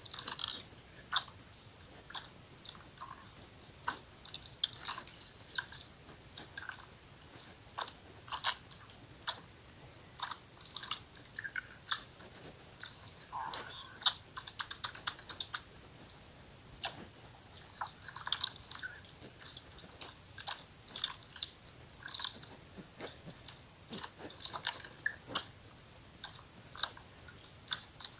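Slime being squeezed and pressed by hand, giving irregular, quick, sticky crackles and small air-bubble pops.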